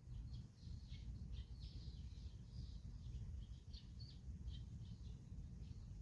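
Small birds chirping in many quick, short calls over a steady low rumble.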